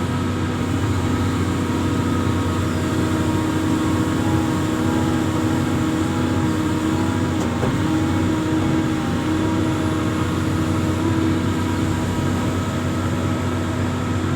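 Diesel engine of an amphibious excavator running steadily under load, with a slight change in pitch about halfway through and again later.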